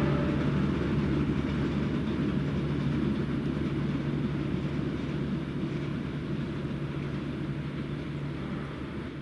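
Passenger train running past, a steady rumble with a low diesel hum that slowly fades as it moves away, then cuts off abruptly near the end.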